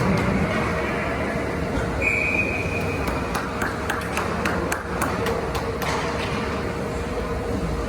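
Ice hockey rink ambience: a steady wash of arena noise with repeated sharp clacks of sticks and puck, and a short high whistle tone about two seconds in.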